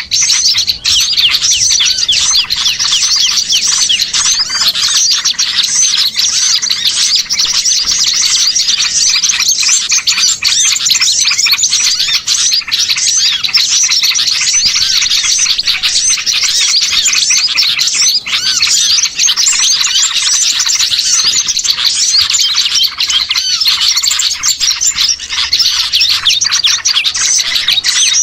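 Dense, continuous chorus of many small songbirds chirping and twittering over one another, mixed as a bird-trapping lure recording of small-bird calls.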